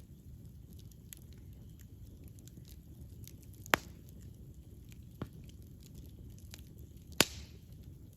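Wood fire burning with a steady low rumble and scattered small crackles, broken by two sharp, loud pops about four and seven seconds in and a smaller one between them.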